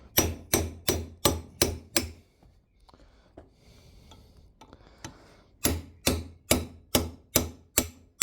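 Hammer blows on metal, about three a second, in two runs of six or seven strikes with a pause of about three seconds between: driving out an old worn bush a bit at a time without damaging the housing it sits in.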